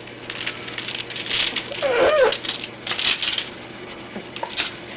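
Rapid clicking and rattling as a pet parrot plays with a toy in its cage, coming in clusters over the first three and a half seconds, with one short bird call about two seconds in.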